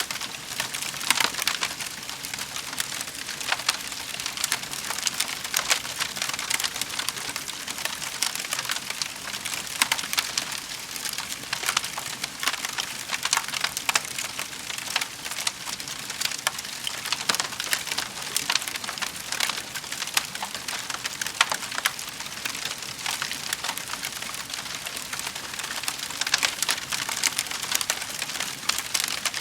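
Wood fire in a fireplace crackling steadily, with many small sharp pops and snaps close together and a few louder ones.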